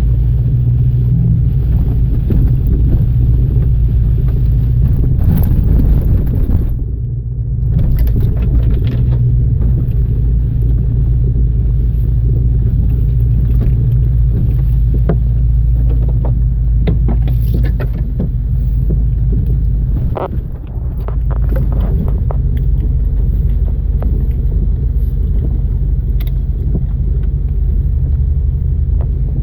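Off-road vehicle's engine running steadily at a low pitch, heard from on board, with scattered knocks and rattles as it drives over a rough trail. The engine sound dips briefly twice, about seven and about twenty seconds in.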